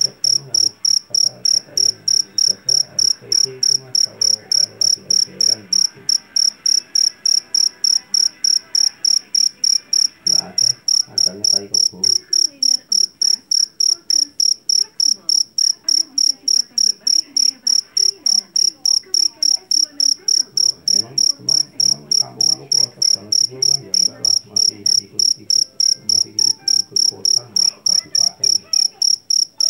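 Jangkrik jeliteng (Javanese black field cricket) chirping loudly and steadily: a shrill, high chirp repeated evenly about three times a second.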